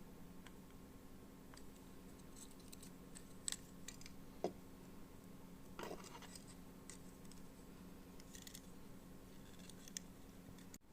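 Faint clicks and scratches of small hand work on an E27 lamp socket and its wires, as the wires are fitted and screwed in, with a steady low hum underneath.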